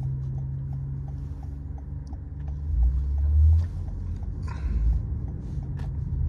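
Cabin noise inside a moving Toyota Camry: steady low road and engine rumble with a light ticking about three times a second. The low rumble swells heavier about three seconds in and again near five seconds.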